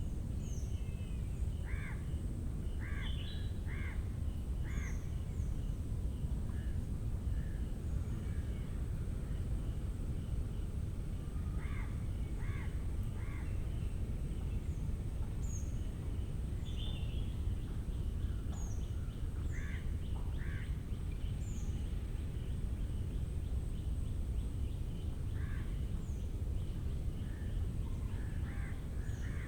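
Mangrove-forest ambience: birds call in short runs of three or four notes every few seconds, with small high chirps from other birds. A steady high insect drone and a constant low rumble run underneath.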